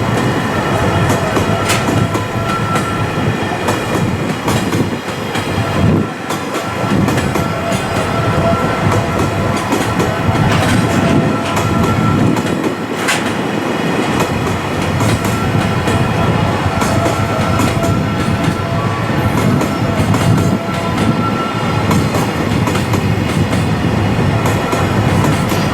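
Freight train running past on the rails, its wheels clacking over rail joints, with a steady high whine throughout.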